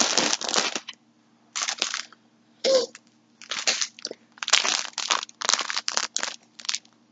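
Packaging crinkling and rustling in a run of irregular handling bursts, about seven in all, as skeins of yarn are moved around in their wrapping.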